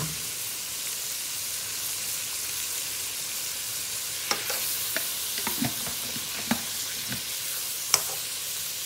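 Diced chicken sizzling in oil in a frying pan on high heat. From about four seconds in, a slotted spatula scrapes and taps against the pan several times as the chicken is stirred.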